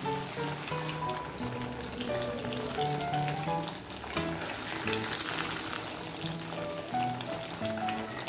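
Paneer cubes sizzling and crackling as they fry in hot mustard oil in a kadhai, with a melody of background music playing over it.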